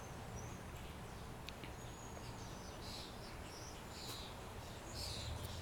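Birds chirping in short, high calls every second or so over a faint steady low background rumble.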